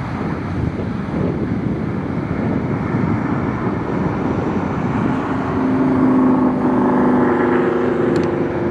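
Boeing 737 jet engines at takeoff thrust on a departure: a broad roar that grows louder, with steady whining engine tones coming up about halfway through.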